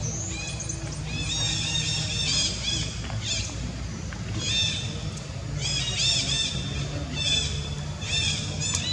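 A bird chirping in repeated bursts of quick, high, arched notes, each burst lasting about a second and coming every second or two, over a steady low hum.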